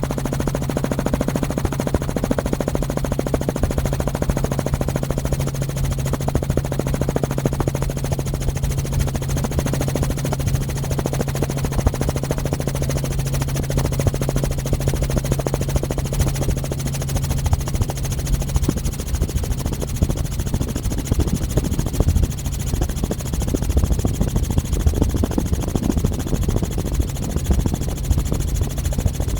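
Helicopter running close by: a steady, rapid chopping from its rotor, with a low hum underneath that fades out a little past halfway.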